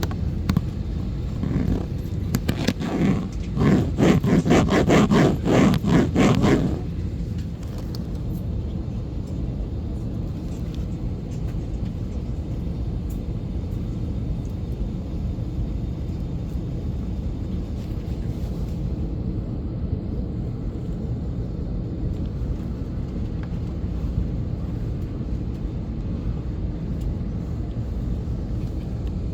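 Steady low rumble of an Airbus A320 airliner's cabin on the ground before takeoff. For the first several seconds a rapid, louder scraping and rubbing close to the microphone sits on top of it, then stops.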